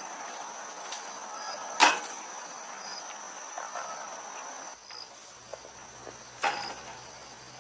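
Steady high-pitched insect trill, like crickets, with two sharp knocks, one about two seconds in and another near the end.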